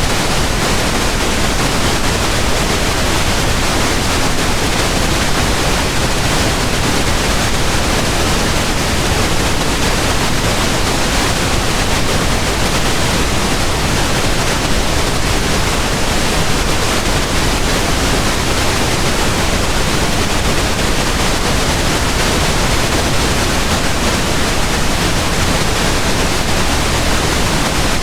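Pink noise: a steady, even hiss spread across all pitches, weighted toward the low end, with no change.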